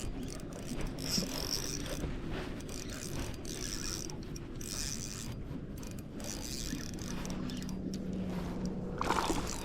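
Fishing reel being cranked to reel in a hooked bass.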